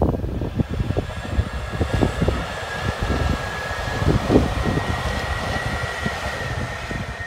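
A train passing, with a thin high whine that slowly rises in pitch over a steady rushing noise. Gusty wind rumbles on the microphone underneath.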